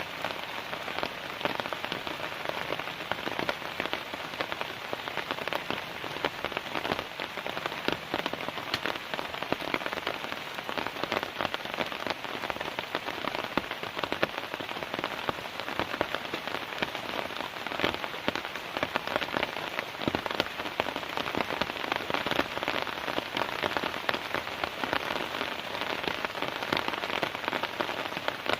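Heavy rain falling steadily on a tent, many separate drop hits over an even hiss.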